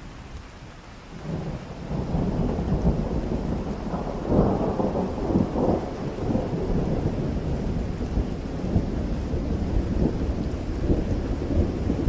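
Rain falling, with a long roll of thunder that swells in about a second in and rumbles on, loudest around four seconds in.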